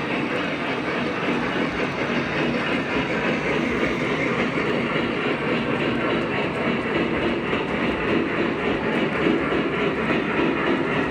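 Model train running on its track: a steady rumble of motor and wheels, with a light regular clicking of the wheels over the rail joints.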